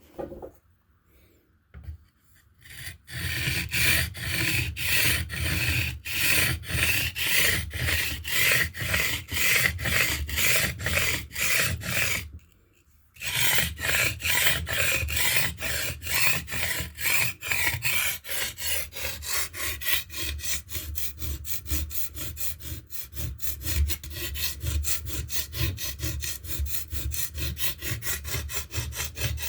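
Steel blade being stroked back and forth across a limestone sharpening stone, grinding a bevel: a rhythmic scrape of about two strokes a second, a short stop near the middle, then quicker, lighter strokes.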